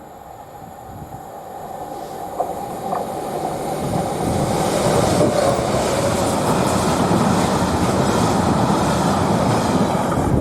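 A train approaching and passing along the track. Its noise builds over the first few seconds and then holds loud and steady.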